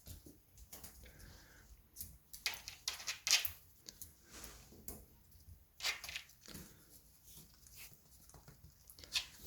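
A puppy scratching and scrabbling at a cardboard box wall: scattered scrapes and rustles, busiest in the middle.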